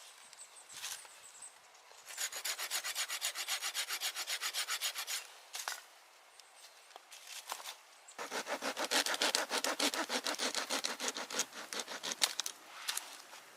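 A hand saw cutting through wood in rapid, even strokes, in two bouts with a short pause between.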